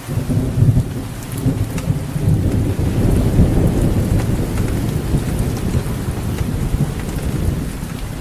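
Heavy rain falling steadily, a dense patter over a deep continuous rumble.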